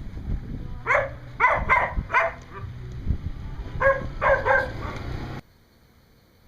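A dog barking in two quick runs, about four barks and then three, over a steady low hum that cuts off suddenly near the end.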